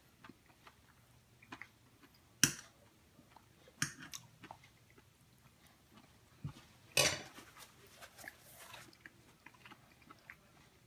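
A person biting into and chewing grilled asparagus, with small quiet chewing clicks and three sharper bites, the loudest about seven seconds in.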